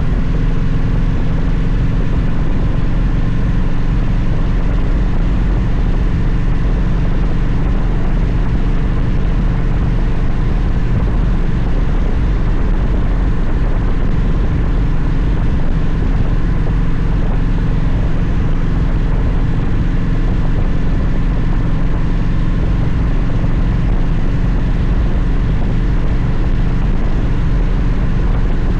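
Victory motorcycle's V-twin engine running at a steady cruise, an even unchanging engine note over a constant rush of wind noise.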